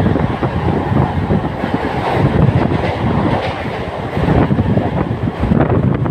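Non-AC Mumbai suburban local train (EMU) running at speed, heard from on board: a steady loud rumble with wheels clattering over the rails.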